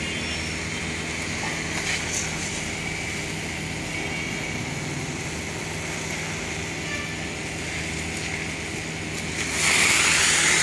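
Portable pressure washer's pump motor humming steadily while its spray gun jets water, with a hiss of spray; near the end the spray hiss jumps suddenly louder.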